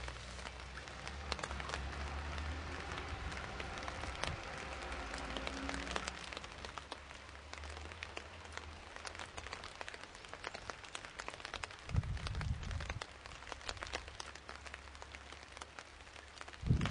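Steady rain, with many raindrops ticking irregularly close to the microphone. A low rumble runs under it for the first several seconds, and a short low rush comes about twelve seconds in.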